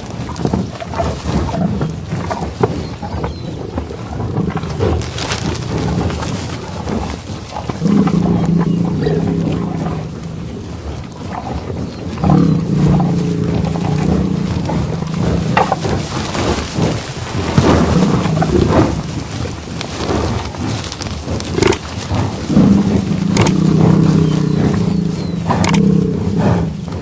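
Buffalo bellowing: three long, low, steady calls of two to four seconds each, about a third of the way in, near the middle and near the end, over a constant noisy background.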